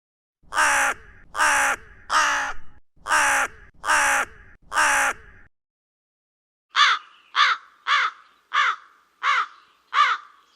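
A bird calling harshly: six calls about a second apart, then after a pause six shorter calls, each falling in pitch.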